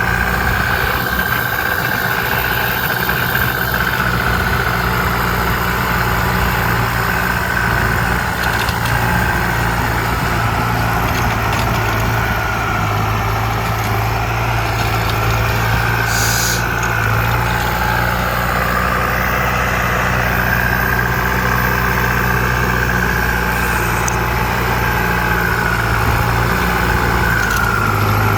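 ZT 155 tractor engine running steadily, with a high whine that wavers slightly in pitch running along with the engine hum.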